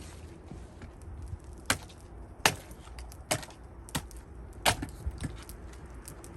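Gränsfors Bruk axe chopping cherry wood: a run of five sharp strikes about three-quarters of a second apart, with a few fainter knocks after them.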